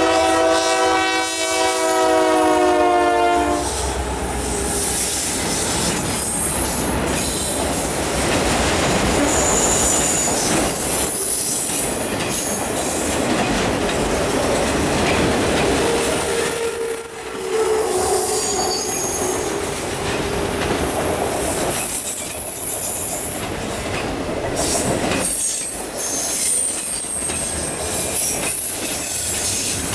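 Diesel locomotive air horn sounding a chord that cuts off about three and a half seconds in. Then a long freight train of autorack and intermodal cars rolls past, its wheels clacking and squealing high-pitched.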